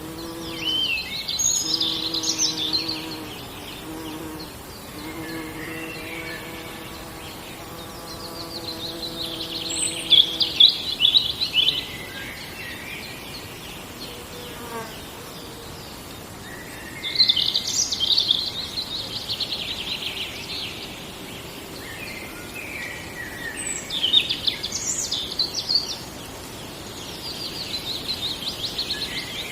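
Songbirds singing in a forest: a high, trilling song phrase of two to three seconds comes back about every seven seconds, with shorter calls between. A buzzing insect hums steadily through the first dozen seconds, breaking off now and then.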